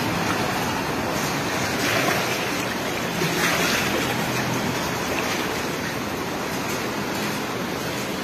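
Heavy rain pouring onto a flooded street while floodwater runs past: a steady, dense hiss of rain and moving water.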